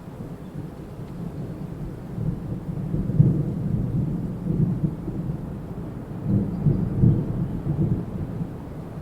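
Deep, low stormy rumble that swells about three seconds in and again around seven seconds, with almost nothing in the higher range.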